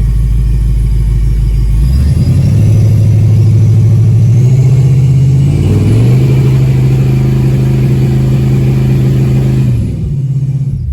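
ProCharger-supercharged junkyard engine, in gear on the trans brake, revved up in two steps (about 2 s in and again about 6 s in) and held at a steady speed, then let back down to idle near the end.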